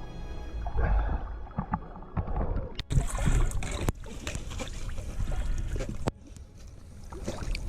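Background music for the first few seconds, then water splashing and sloshing close to the microphone, with scattered sharp clicks and knocks.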